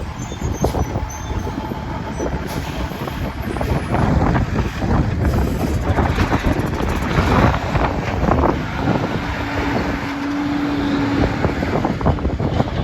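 Heavy trucks driving past on a road, a loud continuous rumble that surges and fades. A short steady low tone sounds about nine seconds in.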